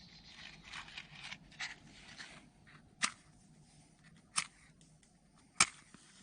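Faint rustling and scraping, then three sharp snaps spaced a little over a second apart, the last one the loudest.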